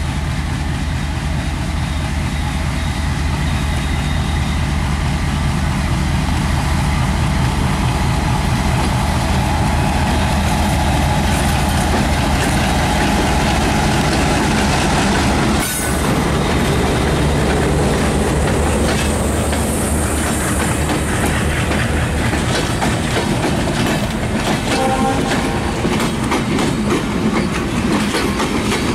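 WDM3A diesel-electric locomotive's engine running steadily as it hauls a passenger train past. About halfway through, the engine sound gives way to the clickety-clack of the passenger coaches' wheels rolling over the rail joints.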